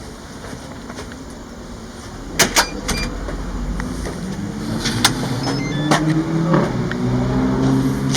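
A few sharp clicks and knocks, then a motor vehicle engine running with its pitch rising slowly and growing louder over the last few seconds.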